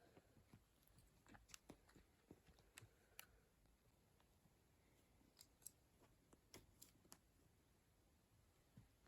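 Near silence, with faint scattered clicks and a few soft taps.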